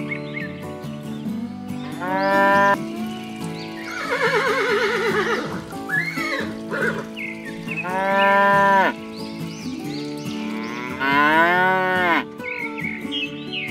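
Cattle mooing three times, each call about a second long, over steady background music. A quavering call sounds about four seconds in.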